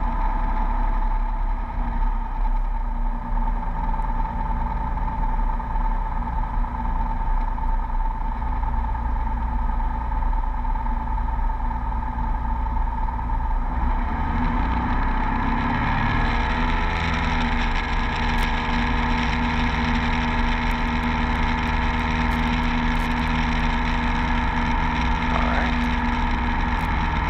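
Beechcraft V35 Bonanza's six-cylinder piston engine and propeller heard from inside the closed cabin. It runs at low power at first; about halfway through, the engine is brought up to full takeoff power, rising in pitch and loudness, and then holds steady through the takeoff roll.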